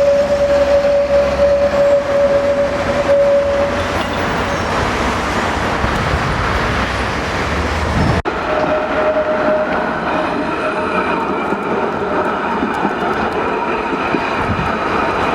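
Streetcar running on its rails, with a steady high-pitched tone over the rolling noise for the first few seconds and again briefly after an abrupt break about eight seconds in.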